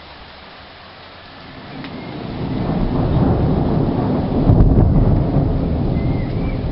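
Rolling thunder over steady rain: the rumble builds from about a second and a half in, is loudest a little past the middle, then slowly eases.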